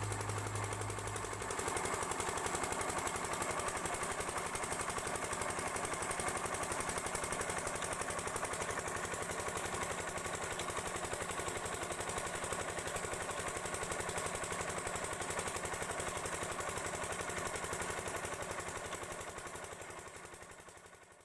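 Diesel water pump set engine running steadily with a fast, even knock, fading out near the end.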